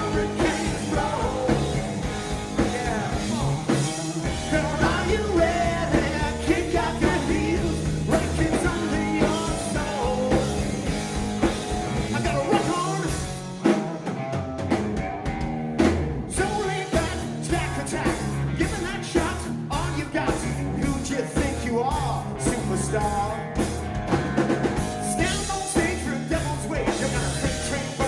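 Live rock band playing a loud, driving rock-and-roll song. The low end drops out briefly about halfway through, then the full band comes back in.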